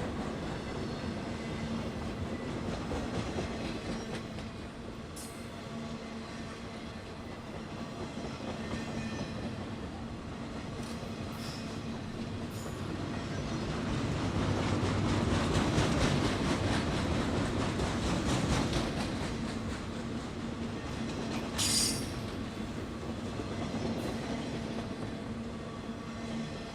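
A train rolling along the rails, with steady wheel noise and a low steady hum, growing louder toward the middle and then easing off. A short, sharp squeal is heard about 22 seconds in.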